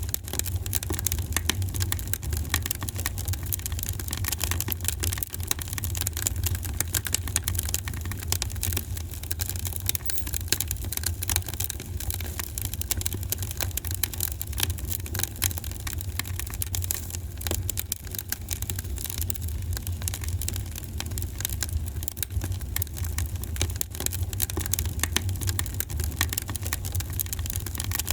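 Fire burning in a fireplace, crackling steadily with many small sharp pops over a continuous low rumble.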